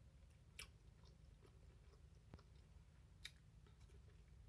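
Faint chewing of food close to the microphone, with two sharp mouth clicks, about half a second in and about three seconds in.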